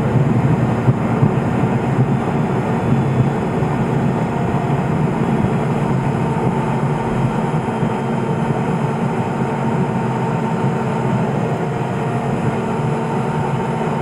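Steady drone of the Cessna P210 Silver Eagle's Rolls-Royce 250 turboprop engine and propeller heard from inside the cockpit, with a faint steady whine above the low hum and a few light clicks in the first few seconds.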